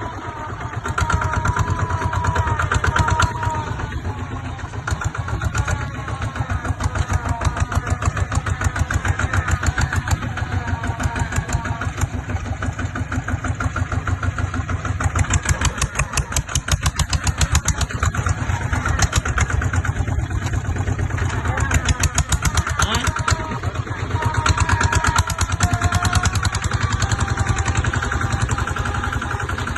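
Kubota ZT140 single-cylinder diesel engine of a two-wheel hand tractor running steadily, with a fast, even chugging.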